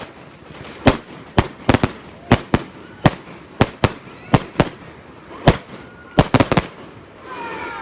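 Celtic China Star firework going off in a rapid, irregular series of sharp bangs, about two a second, which stop about six and a half seconds in. Voices start up near the end.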